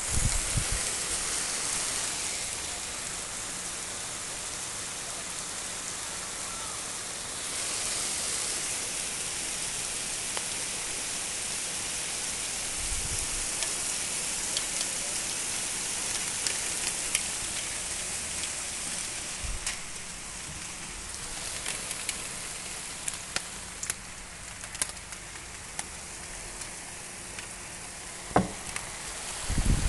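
Heavy summer downpour, a steady hiss of rain falling on lawn, paving and roofs. From about midway, scattered sharp ticks of drops striking close by, with a few dull knocks, the loudest near the end.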